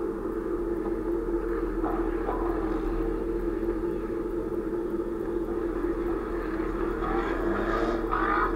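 A stationary car's engine idling with a steady drone. Near the end, a brief sound rises in pitch over it.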